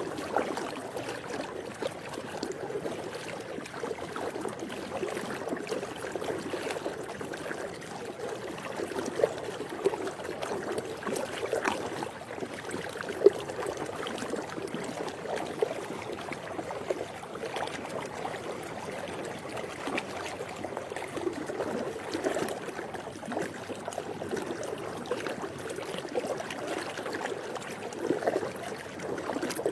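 Swimming pool water moving and trickling: a steady watery wash with small splashes and drips scattered through it, one a little sharper about halfway through.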